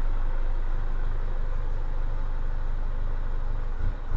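Holden Jackaroo's 4JX1 four-cylinder turbo-diesel engine running steadily at low speed as the vehicle is driven in, with a couple of low thumps near the end.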